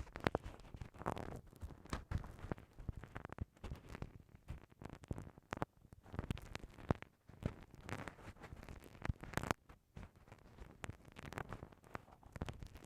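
Bamboo ear pick scraping and scratching inside the ear of a binaural microphone, close-up. It makes a run of irregular rough strokes and crisp clicks.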